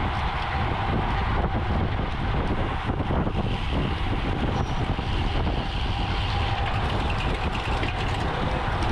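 Steady wind rush over the microphone with low road rumble from a moving bicycle.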